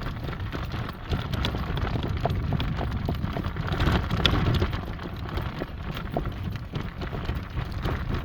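A driving horse's hooves clip-clopping at a trot while it pulls a cart, over a steady low rumble.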